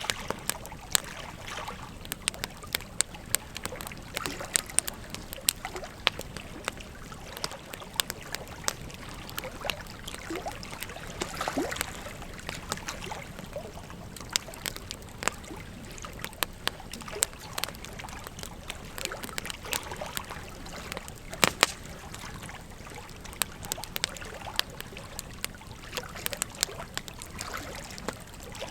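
Wood fire crackling with irregular sharp pops, several a second, over the steady flowing water of a river. The loudest pops come as a close pair about two-thirds of the way through.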